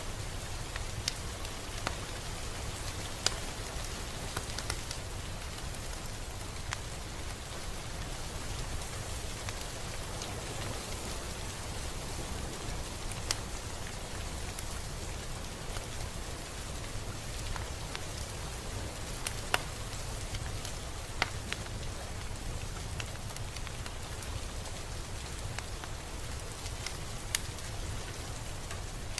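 Steady rain falling: an even hiss with scattered louder single drops tapping now and then.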